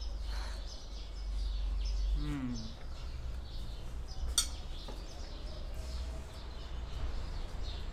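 Small birds chirping again and again over a steady low outdoor rumble. About two seconds in comes a man's short, falling 'mmm' as he chews, and a sharp single click a little past four seconds in.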